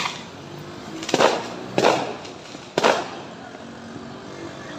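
Fireworks going off: four sharp bangs in the first three seconds, irregularly spaced, the second and fourth the loudest, over a steady background noise.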